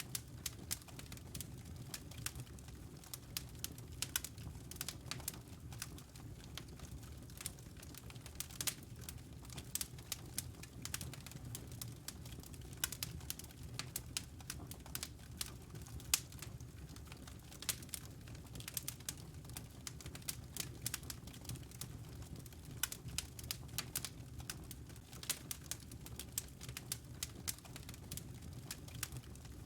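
Wood fire in a fireplace crackling: irregular sharp pops and snaps, several a second, over a low steady rumble, with one louder pop about halfway through.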